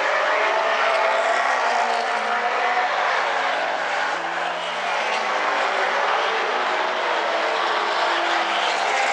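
Late model stock cars racing around a short oval, their engines running hard at racing speed. Several engine notes rise and fall and overlap as the cars go down the straights and through the turns.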